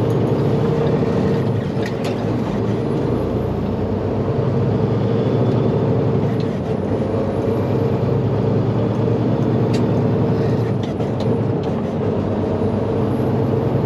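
Semi truck's diesel engine and road noise heard from inside the cab while driving, a steady drone.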